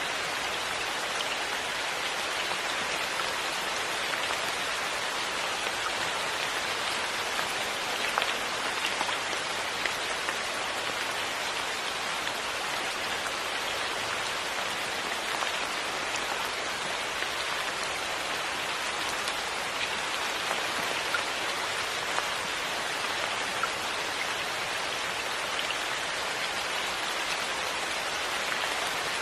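Steady rain falling, a constant patter with scattered individual drops standing out.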